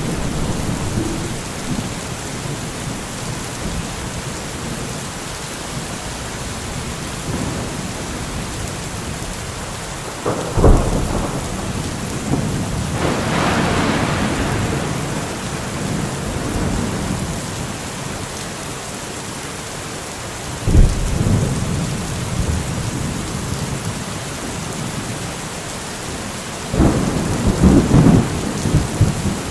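Steady rain falling, with thunder: sudden low cracks about ten and twenty seconds in, a longer rumble just after the first, and more rolling rumbles near the end.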